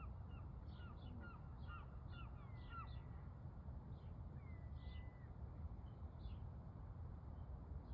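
Canada geese calling faintly: a quick run of short honks over the first three seconds, then a few scattered ones, over a steady low outdoor rumble. A thin drawn-out whistle comes in twice.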